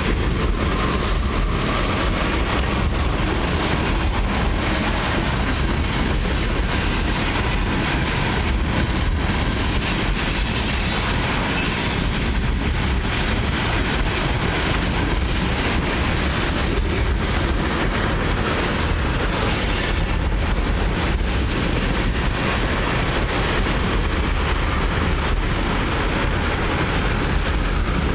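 Long freight train of oil tank cars rolling past, with a steady rumble and clatter of steel wheels on the rails.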